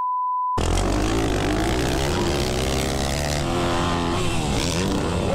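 A short censor bleep, then a dirt bike engine revving, its pitch rising and falling.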